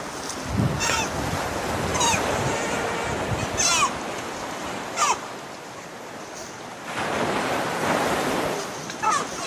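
Rushing water of a waterfall as a steady hiss, with about five short, falling calls cutting through it at irregular intervals.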